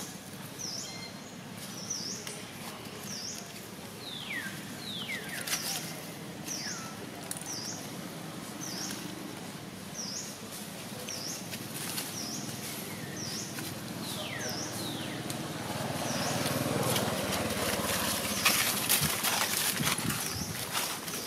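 A bird repeats a short high chirp about every two-thirds of a second, with a few high squeals falling in pitch mixed in. Over the last few seconds, rustling of dry leaf litter grows louder.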